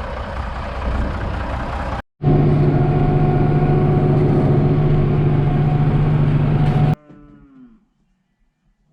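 A vehicle engine running. Then, after a sudden break, a loud, steady engine drone holding one pitch for about five seconds, which cuts off abruptly.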